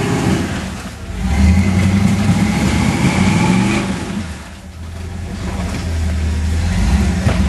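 Toyota 4Runner engine revving in surges as it crawls up a waterfall on 47-inch tyres, easing off about a second in and again around four and a half seconds, then building back up.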